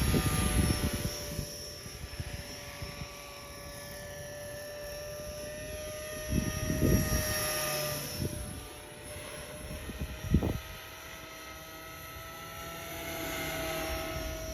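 Electric RC helicopter, a Trex 450 with EC 145 scale body, flying with a steady motor and rotor whine that rises slightly in pitch near the end. Wind blasts on the microphone rumble over it at the start, around the middle and briefly about ten seconds in.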